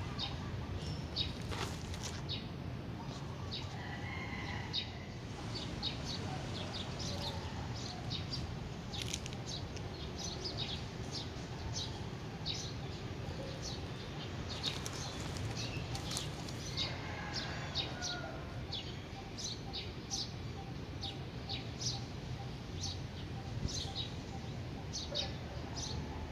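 Small birds chirping in quick, scattered calls over a steady low background rumble.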